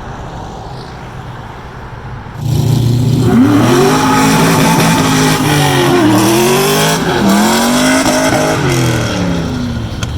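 A loud car engine comes in about two and a half seconds in, after a quieter low rumble, and revs up and down several times.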